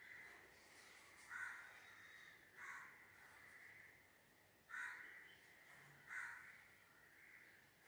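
Faint, repeated harsh bird calls, about five short calls spaced one to two seconds apart, over near-silent room tone.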